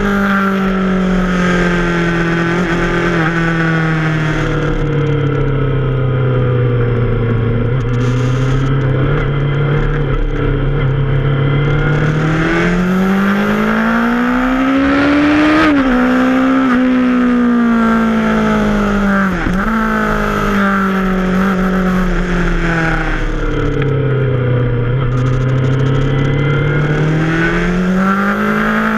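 Yamaha FZ6R's 600 cc inline-four engine under way through a run of bends, its revs rising and falling with the throttle: the pitch falls and holds low, climbs to a peak about fifteen seconds in and drops sharply, then falls and rises again near the end. A rushing wind noise lies under it.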